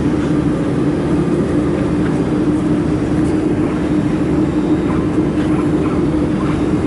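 Laser welding machine setup running with a steady mechanical hum from its dust collection fan and cooling equipment, one low tone held throughout.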